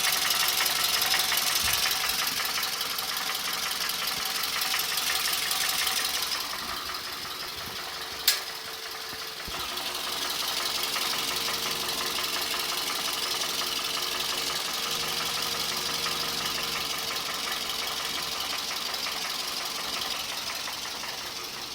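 Toyota Camry engine idling with a dull, metallic knock from inside the motor, which the owner puts down to oval-worn cylinders 3 and 4. It gets somewhat quieter about six seconds in, and there is a single sharp click about eight seconds in.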